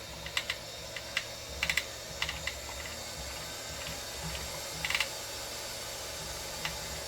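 Nail drill machine's controls being operated: sharp clicks in small clusters of two or three, over a steady faint hiss and hum.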